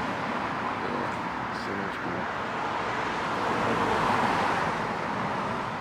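Steady city street traffic noise, with a car passing that swells about four seconds in.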